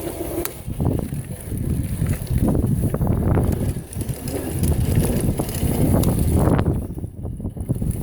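Electric scooter riding down over rough, wet ground: an uneven low rumble with scattered knocks that swells and dips.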